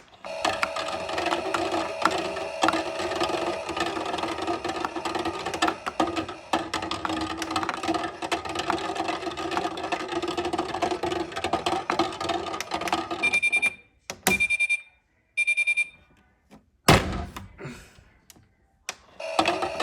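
Battery-powered toy washing machine running: a small motor whirring with a steady hum and a light rattle, cutting off about thirteen seconds in. Three short electronic beeps follow, then a couple of knocks, and the motor starts again near the end.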